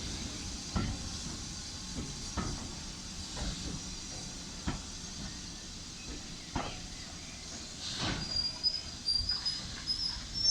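BR Standard Class 2MT steam locomotive 78018 and its train arriving slowly, with scattered clanks and knocks over a steady hiss. A thin, high squeal comes in about eight seconds in.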